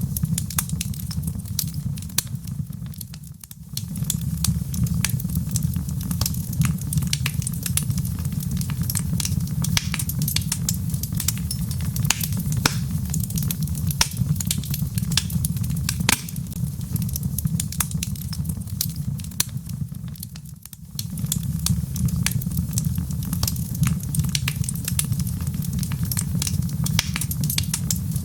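Log fire in a fireplace crackling, with frequent sharp pops and snaps over a steady low rumble. The rumble briefly fades twice, a few seconds in and about two-thirds of the way through.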